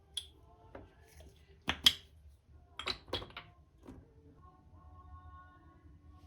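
A few light clicks and knocks, like tea utensils and containers being handled on a table. The loudest comes near two seconds in, with a quick cluster about three seconds in, and a faint steady tone is heard in the second half.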